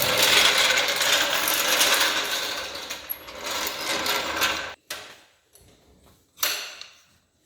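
A power tool runs steadily on fasteners during an engine teardown, fading and then cutting off abruptly about four and a half seconds in. A few faint clicks follow, then one short loud burst near the end.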